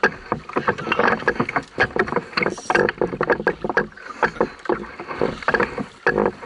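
Dense, irregular clicks and knocks from rod, reel and canoe hull, over water noise, while a hooked fish is played from the canoe.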